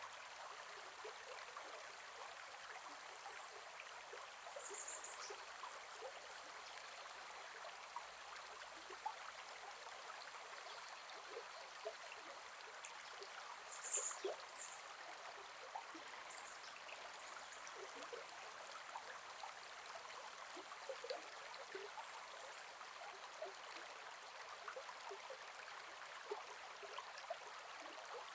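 Gentle forest river flowing: a soft, steady rush of water with small drips and splashes. Two brief high chirps stand out partway through.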